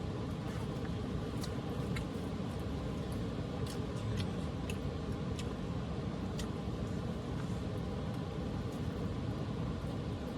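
Steady rushing of a small waterfall, with a few sharp cracks from a wood cooking fire scattered through it.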